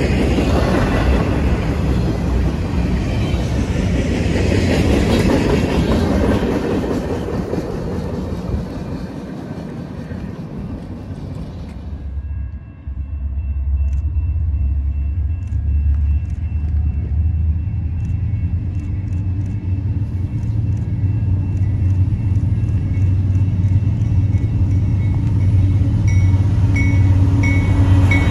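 A double-stack intermodal train's well cars rolling past, their wheels running on the rails, with the noise slowly fading over the first twelve seconds. Then a CN freight's diesel locomotives approach with a steady low engine hum that grows louder as the leading units draw alongside near the end.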